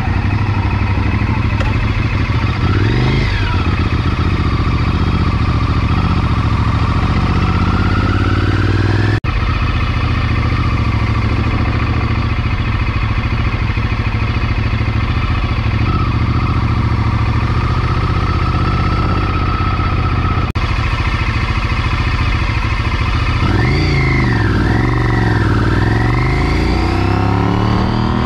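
Sport motorcycle engine running hard on a racetrack, with wind noise. The engine pitch rises and falls with throttle and gear changes, most clearly in several swoops near the end.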